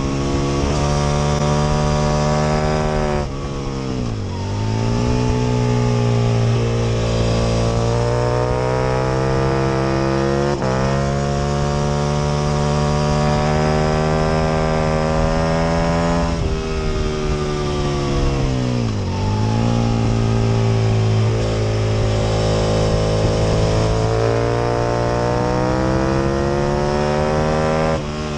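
Aprilia RSV Mille R's 998 cc V-twin heard onboard at racing speed, held at high revs. It drops sharply in pitch twice, about three seconds in and again after about sixteen seconds, as the bike slows for corners, then pulls back up through the gears.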